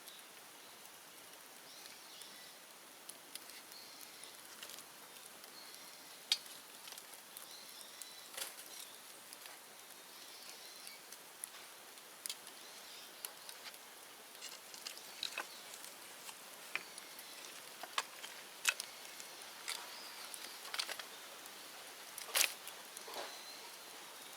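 Bonfire of cleared bamboo and brush crackling, with sharp irregular pops over a steady hiss; the loudest pop comes near the end.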